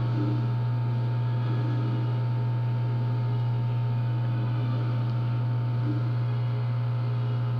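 Steady electrical mains hum, low and unbroken, with a few faint steady higher tones above it.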